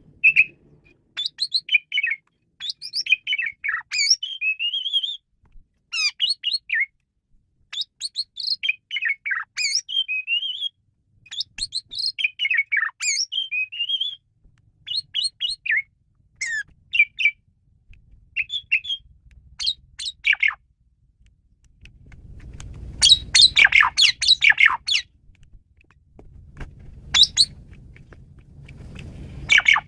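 Asian pied starling (jalak suren) singing a varied song of short, quick whistled and chattering phrases with sliding pitches. Two louder, harsher and denser bursts of chatter come about two-thirds of the way in and again near the end.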